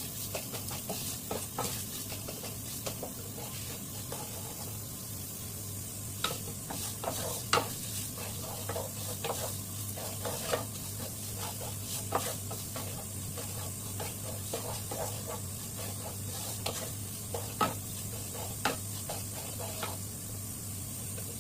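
A spoon stirring butter and sugar melting into caramel in a pan, with irregular clicks and scrapes of the spoon against the pan over a low sizzle.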